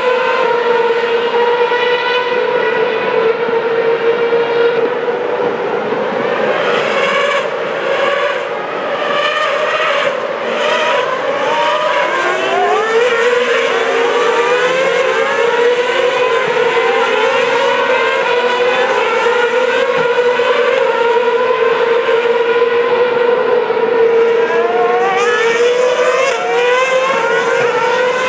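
Formula One cars' engines racing without a break, with many overlapping rising pitch sweeps as cars accelerate and shift up through the gears.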